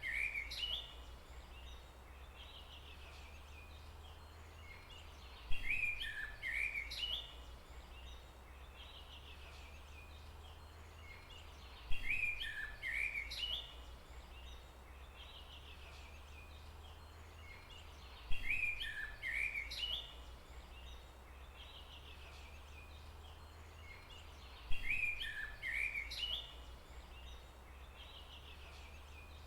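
A songbird singing the same short phrase of quick rising and falling notes, repeating about every six and a half seconds, over a steady low rumble.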